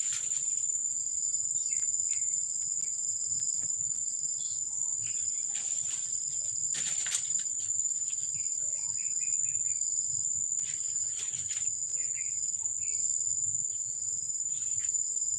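Crickets chirping in a steady, unbroken high-pitched chorus, with a few short scattered chirps and clicks over it.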